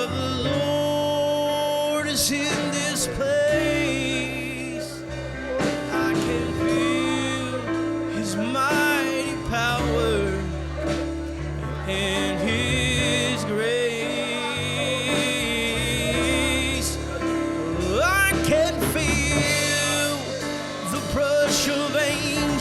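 Live gospel worship music: a singer's voice over bass, guitar and keyboard-like held chords.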